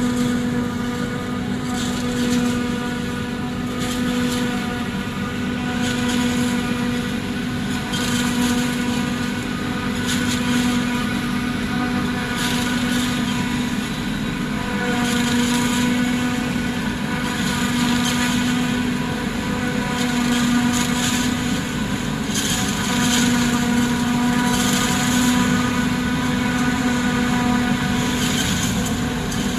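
Tractor-powered silage chopper running steadily: a constant machine hum with a higher whine, and swells of hiss about every two seconds.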